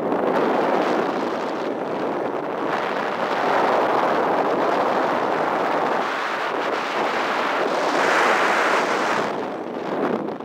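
Wind rushing past the microphone and through the paraglider's lines in an engine-off paramotor glide, swelling and easing in gusts, with no engine running. It drops off sharply at the very end.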